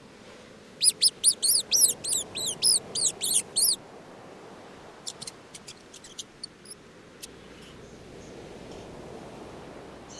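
Dolphin sound effect: a rapid string of about a dozen high, arching squeaky whistles, then a few short, sparse clicks a couple of seconds later.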